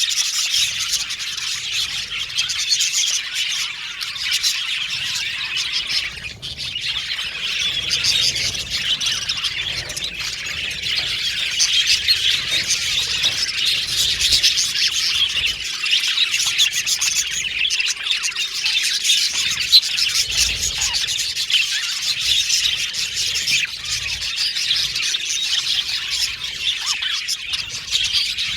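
A flock of budgerigars chattering, with many overlapping chirps, warbles and squawks.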